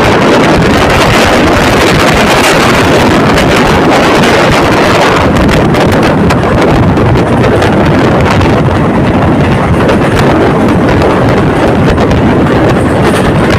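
Loud, steady wind rushing over the phone microphone from a moving passenger train, with the train's running noise underneath.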